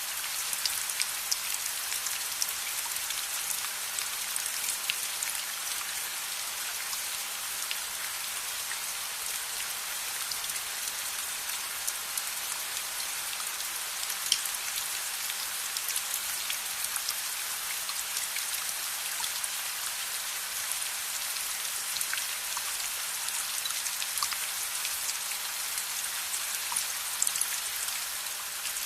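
Steady rain falling, a dense even hiss with scattered sharp ticks and pops through it.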